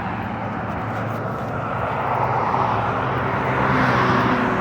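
Motor vehicle on the move: steady engine and road noise with a low hum, swelling slightly near the end.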